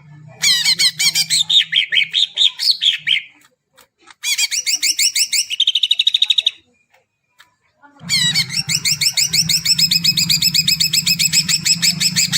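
Cucak ijo (greater green leafbird) singing in three long phrases of fast, repeated high chirps, broken by short pauses, with a low hum underneath.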